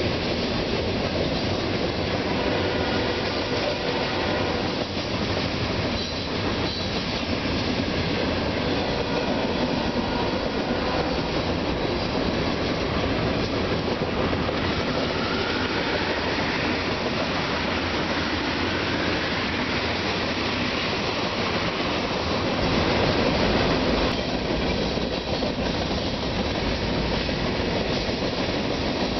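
BNSF freight train's boxcars rolling past at steady speed, a continuous rumble of steel wheels on rail. Faint rising wheel squeals come and go around the middle.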